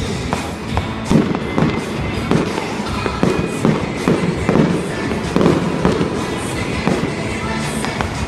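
Aerial fireworks bursting in a rapid series of booms with sharp crackles between them, over music playing in the background.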